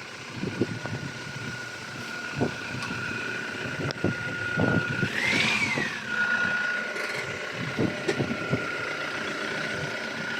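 Motor vehicle running, with a steady high whine that rises in pitch and falls back once about midway, and a few light knocks.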